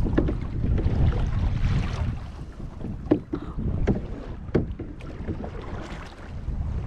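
Wind buffeting the microphone over water sounds from a small paddled boat, with three sharp taps near the middle.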